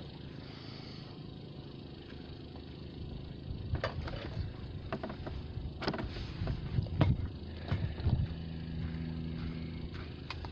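A steady low engine rumble, with several sharp knocks and clanks from about four seconds in: tools working on tight lug nuts.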